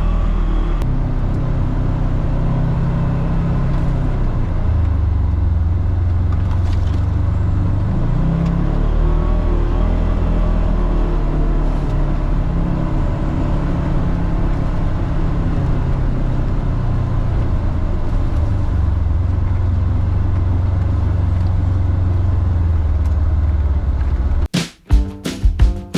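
Polaris Xpedition side-by-side's engine running on the trail, its pitch rising and falling with the throttle over a steady low rumble. Music with a drum beat cuts in abruptly near the end.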